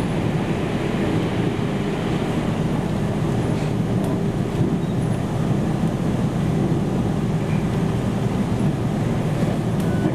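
Steady running noise inside a JR Central 313 series electric multiple-unit car on the move: a rumble of wheels on the rails with a faint steady hum and a few faint clicks.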